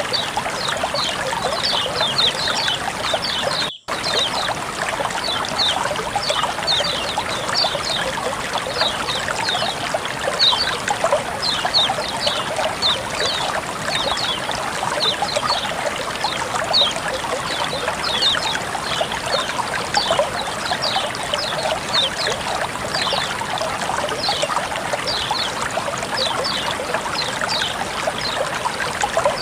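Water flowing and trickling steadily, with many quick high-pitched chirp-like ticks over it. The sound cuts out completely for an instant about four seconds in.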